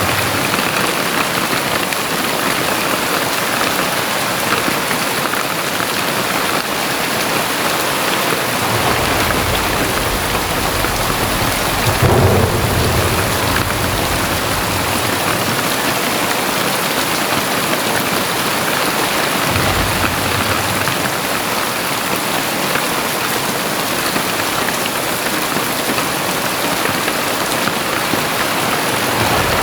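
Very heavy rain falling steadily, with a low rumble of thunder building from about nine seconds in and peaking near twelve seconds, and a shorter rumble about twenty seconds in.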